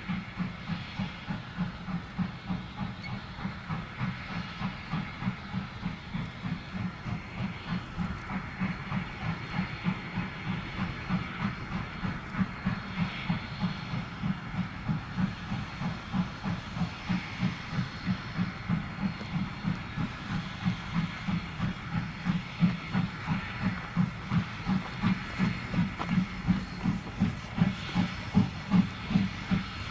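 Steam locomotive running with a steady, even exhaust chuff, about three beats a second, over a continuous steam hiss.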